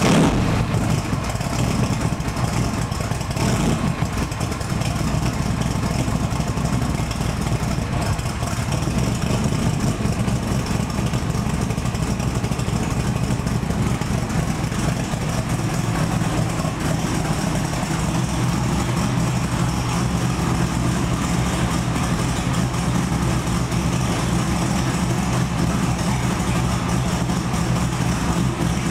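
Cobra's 427 V8 engine just after a cold start, running at idle. It settles into a steady, even idle after the first several seconds.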